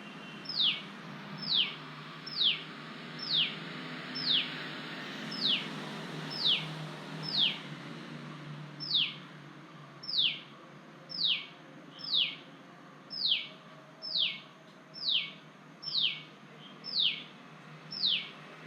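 A hidden songbird repeats a single short whistle that slides sharply down in pitch, about once a second. There is a brief pause just past the middle.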